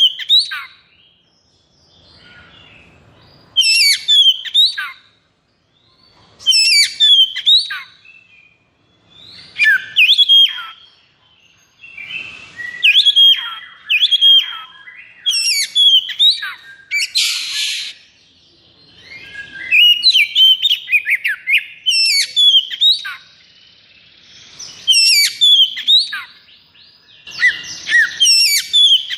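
Oriental magpie-robin (kacer) singing in fast, rapid-fire phrases of sweeping whistled and scratchy notes, one phrase every two to three seconds, with a harsh buzzing rasp about 17 seconds in.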